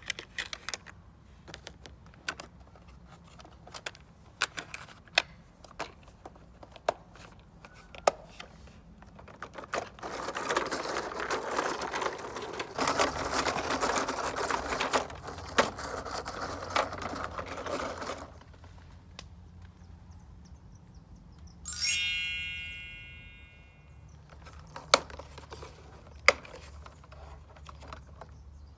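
Small toy vehicles being handled and moved: scattered sharp plastic clicks and knocks, a run of rattling, rolling noise for several seconds in the middle, and a single bright ringing ding, like a struck bell, about three-quarters of the way through that fades out over a couple of seconds.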